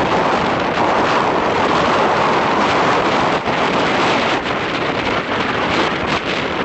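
Strong wind buffeting the microphone over a steady rush of sea surf, with a few sharper gusts near the end.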